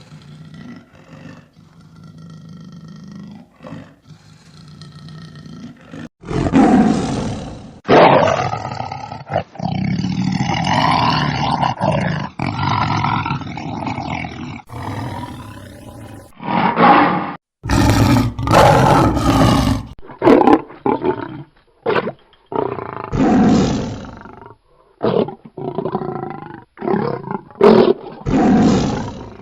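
A large animal roaring and growling in a string of separate calls. It is faint for the first few seconds, then loud from about six seconds in, with some calls cut off suddenly and a run of short calls near the end.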